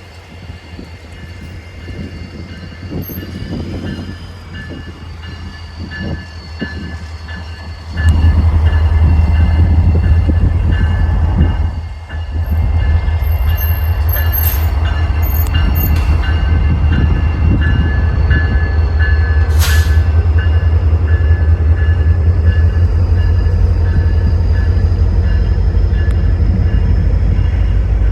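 Diesel locomotive of a rail inspection train running close by, its deep engine rumble jumping sharply louder about eight seconds in as the train gets under way. A brief sharp click comes about twenty seconds in.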